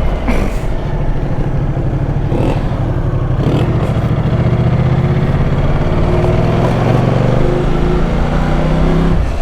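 Ducati Multistrada motorcycle engine running under way, its pitch rising gently a few seconds in as the bike speeds up, with a few brief knocks early on.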